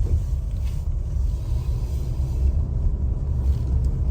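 Steady low rumble of a car driving on a highway, heard from inside the cabin.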